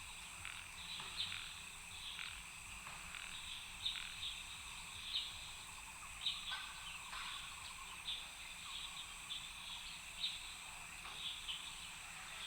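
Frogs and insects calling: many short chirping calls repeat irregularly over a steady high-pitched insect drone.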